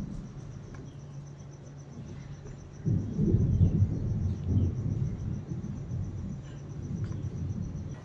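A low rumble starts suddenly about three seconds in and slowly dies away, over a steady low hum and a faint, fast, high pulsing.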